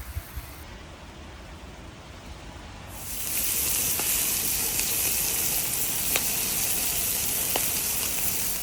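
Meat sizzling on a grill. A loud, steady hiss starts about three seconds in, with a few sharp pops of spattering fat.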